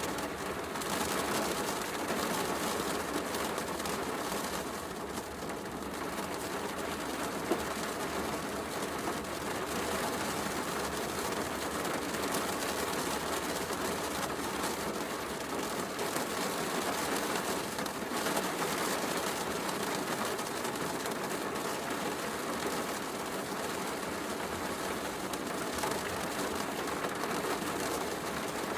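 Heavy rain falling steadily, mixed with a fireplace crackling, with one sharp crack from the fire about seven and a half seconds in.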